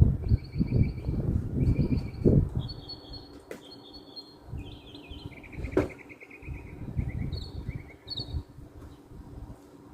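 Bird chirping in a run of short, rapid trills, one after another, with irregular low rumbling bumps underneath that are loudest in the first few seconds.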